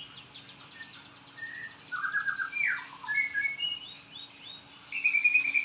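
White-rumped shama (murai batu) singing: a run of varied whistled phrases and quick trills, with the loudest phrase near the end.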